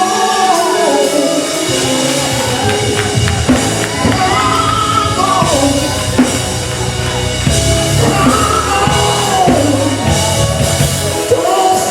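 Live gospel worship music: singing over a band with drum kit and bass, echoing in a large hall.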